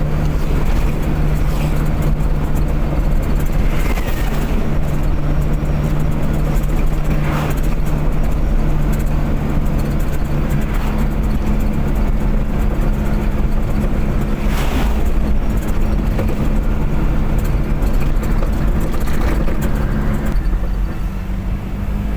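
Car driving at speed: a steady engine drone over constant road and tyre noise, with a few brief whooshes. The engine note changes near the end.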